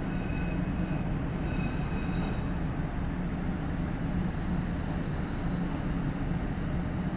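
Echizen Railway electric train running on the Mikuni-Awara Line: a steady low rumble of wheels and running gear, with a brief high-pitched ringing twice in the first two or three seconds.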